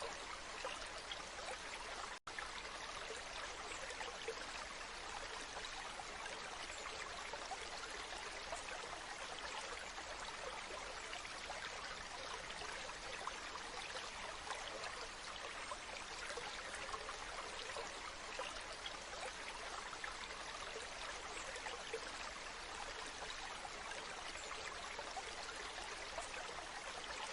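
Waterfall: steady rushing, splashing water with no change in level, broken once by a momentary cut a little over two seconds in.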